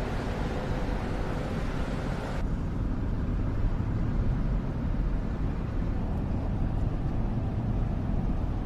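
Steady low rumble of a car in motion, heard from inside the cabin; the hiss above the rumble drops away abruptly about two and a half seconds in.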